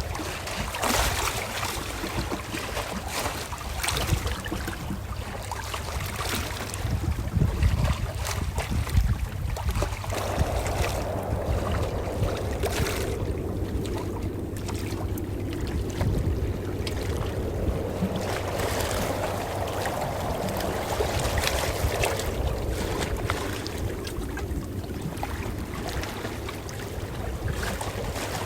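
Calm ocean waves washing and lapping: a continuous splashing wash over a deep rumble, swelling and easing slowly.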